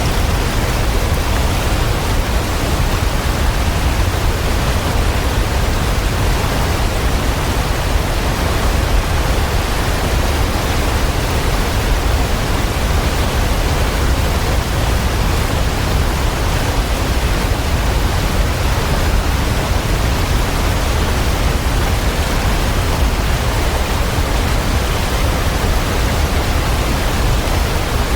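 Waterfall: a steady, even rush of falling water, deep and unchanging.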